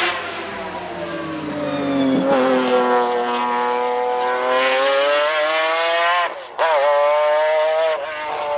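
Nissan 370Z's 3.7-litre V6 engine revving hard as the car accelerates, its pitch climbing steadily. About six and a half seconds in the sound cuts out briefly, comes back at a higher pitch, then drops again near the end.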